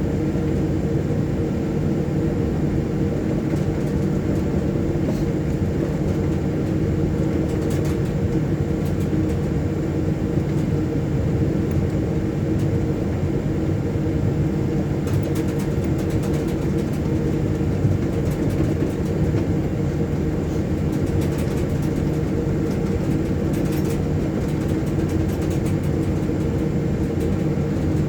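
Steady cockpit noise of a Boeing 737-800 taxiing: a constant hum from the engines near idle and the cockpit equipment. Now and then there are faint clicks or rattles.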